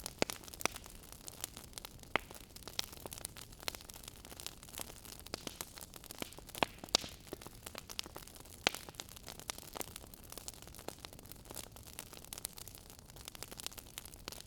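Wood fire crackling and popping in a fireplace: a steady hiss with many sharp, irregular pops, several a second.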